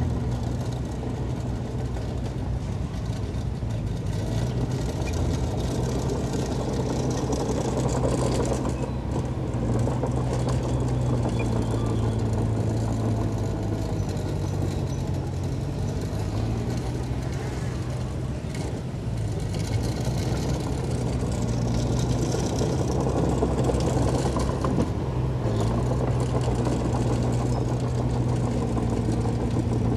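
Heavy diesel engine of earthmoving machinery running steadily, its pitch shifting a little up and down as it works.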